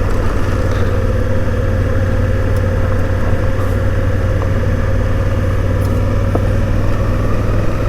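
Honda Africa Twin CRF1000L's parallel-twin engine running at a steady speed on the move, a constant low hum with a steady higher tone over it.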